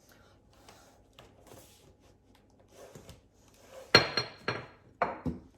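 Kitchenware being handled on a counter: faint taps and shuffling, then about four seconds in a sharp clink that rings briefly, followed by two more knocks.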